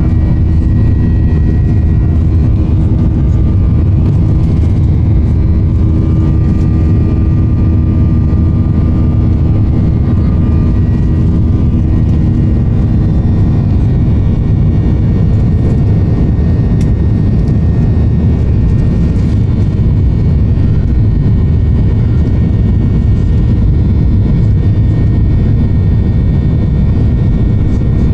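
Boeing 737-800 cabin noise in flight: a steady roar of airflow and its CFM56-7B turbofan engines, with a low hum of steady engine tones, part of which fades out about twelve seconds in.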